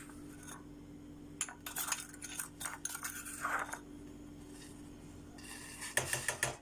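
A metal spoon clinking and scraping against a pot while stirring juice and sugar into syrup, in scattered clusters of knocks, with a steady low hum underneath.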